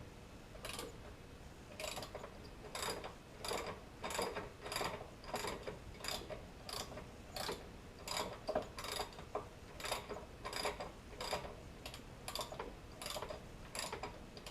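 Hand socket ratchet clicking in repeated strokes, a short burst of clicks about every two-thirds of a second, as it runs an engine-to-transmission bolt in on a Saab engine. The bolt is threading in smoothly.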